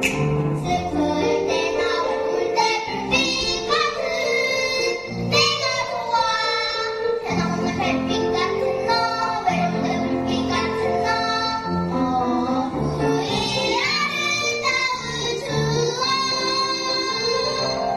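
A child singing a Korean children's song over instrumental accompaniment.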